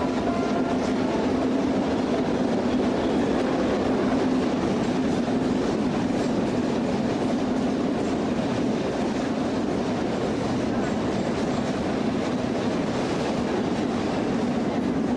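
Freight train rolling along at speed: a steady, loud rumble and rattle of the cars and wheels on the rails.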